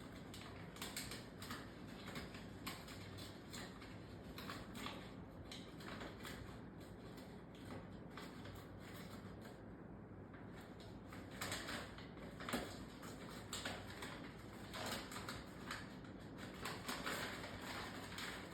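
Irregular soft clicks, taps and paper rustles from a bird pecking at and handling a sheet of paper, coming in scattered bursts that grow busier and louder in the second half.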